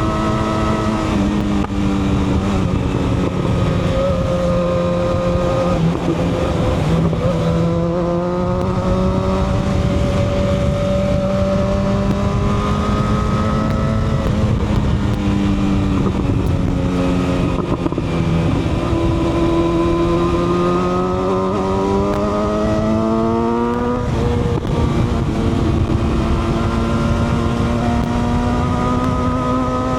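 Motorcycle engine running on the move, its pitch climbing slowly with the revs and dropping sharply at gear changes, about a second in and again after a long pull in the second half. A steady rushing noise lies underneath.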